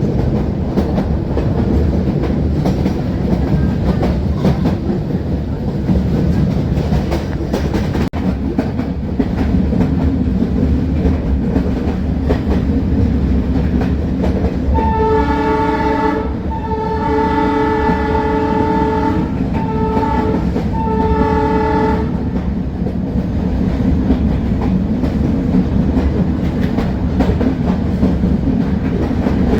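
Metre-gauge train running at speed, its wheels clicking steadily over the rail joints. About halfway through, the YDM-4 diesel locomotive's horn sounds four blasts, the second the longest.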